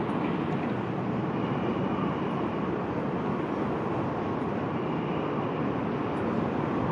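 Passenger coaches of a State Railway of Thailand train rolling past on the track: a steady, even running noise of the wheels and bogies.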